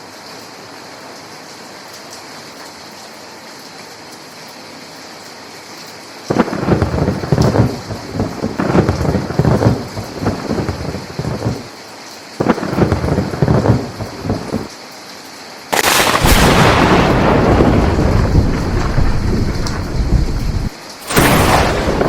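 Steady rain hiss, then rolling thunder in several long rumbling peals starting about a quarter of the way in. The loudest and longest peal comes in the last quarter and starts and stops abruptly.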